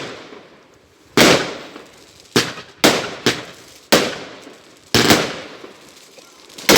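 A string of firework bangs, about eight sharp reports at uneven intervals starting about a second in, each trailing off with a short echo.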